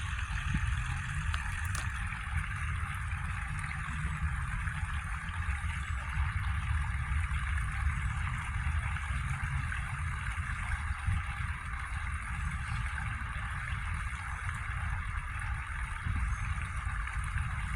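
Wind buffeting the microphone in a steady, uneven low rumble, over a constant outdoor hiss.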